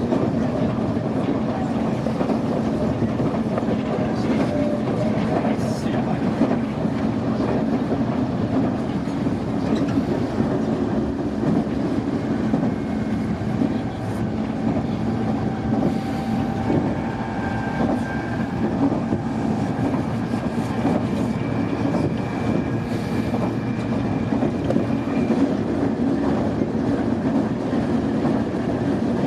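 Nankai electric train running along the line, heard from inside the front car: a steady rumble of wheels on rails with scattered rail-joint clicks. From about twelve to twenty-five seconds in, a thin steady whine of a few high tones rides on top.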